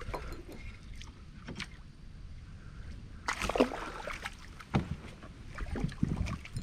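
Wind rumbling on the microphone aboard a fishing kayak, with a few scattered knocks and rattles of gear being handled. The loudest is a short clatter about three seconds in.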